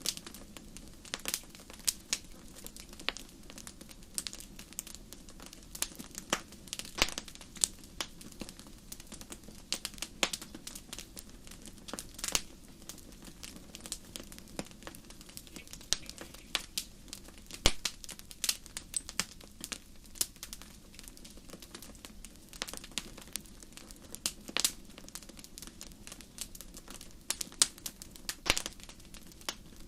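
Wood fire crackling, with irregular sharp pops and snaps over a steady low hiss of burning.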